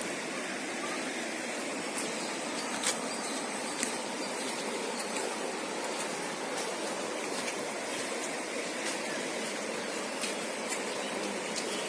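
Steady rushing of a river in flood, its swollen water flowing fast, with a few faint clicks scattered through it.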